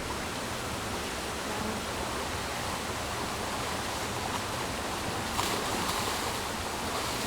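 Steady rushing of running water, an even hiss with no distinct splashes.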